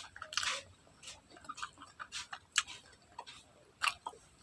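Close-up chewing and mouth sounds while eating: an irregular run of short, crisp clicks, a few a second.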